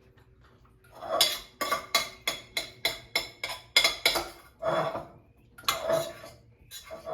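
A metal spoon scraping food out of a pot: a run of about ten quick scrapes, roughly four a second, then three slower, longer scrapes.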